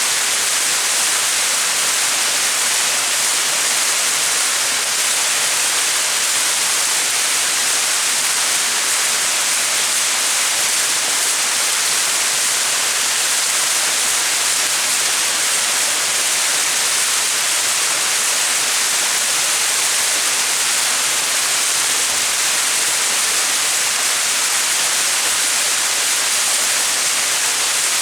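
Small mountain waterfall: water falling and splashing in a steady, unchanging hiss, bright and without much low rumble.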